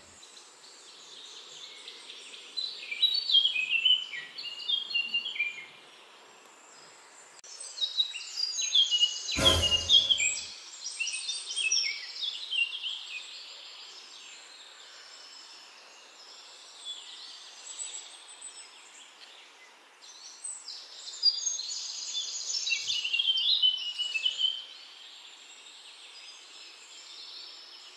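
Songbirds singing in three bursts of rapid chirping notes, over a steady faint background hiss. A single sharp thump comes about nine and a half seconds in.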